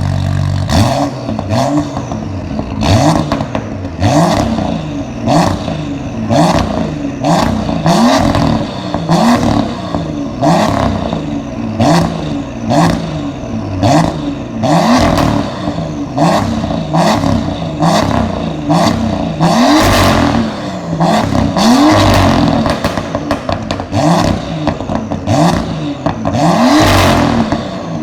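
BMW M2 (F87) engine through an MGmotorsport.pl aftermarket exhaust being revved in quick throttle blips, about one a second, each rev rising then dropping back. Sharp pops and crackles from the exhaust follow as the revs fall.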